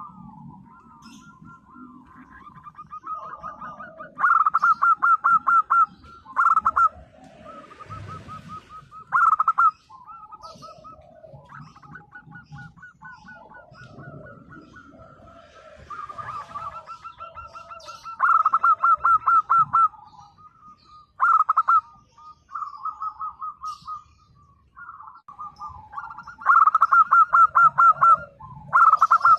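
Zebra dove (perkutut) calling: loud bouts of rapid, pulsed cooing phrases, repeated about eight times, with softer calling in between.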